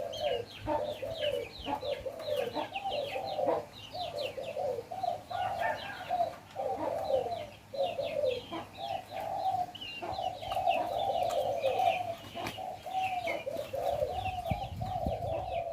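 Spotted doves cooing over and over in near-continuous phrases, with small birds chirping rapidly at a higher pitch behind them.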